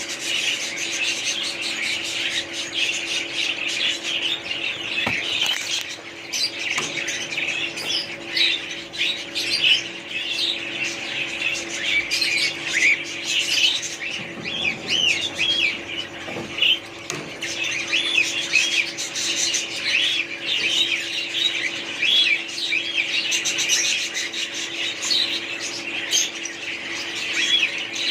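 Many small birds chirping and squawking at once in a dense, unbroken chatter, with a steady low hum beneath.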